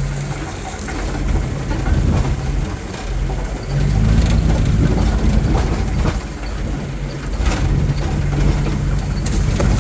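A vehicle driving along a road: steady engine hum and road rumble, with the engine note fading in and out in stretches of a few seconds.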